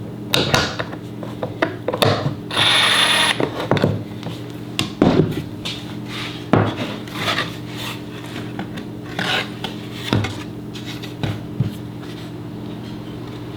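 Workbench handling noise: tools and wood pieces knocked, scraped and set down. A short whir of a power tool sounds about two and a half seconds in. A steady low hum runs underneath.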